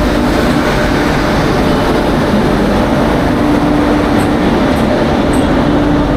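Train at a railway station platform: a loud, steady rumble with a low hum running through it and a few faint high ticks in the second half.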